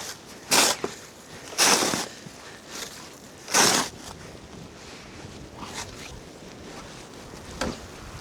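Snow shovel scooping and scraping snow: three loud strokes in the first four seconds, then a few fainter ones over a steady hiss of wind.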